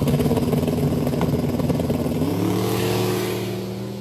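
Race car engine running loud, its pitch rising as it revs up about two seconds in, then growing fainter toward the end.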